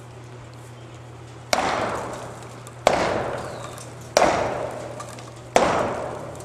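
Sledgehammer blows against a silo wall: four heavy strikes about a second and a half apart, each ringing out and echoing for about a second.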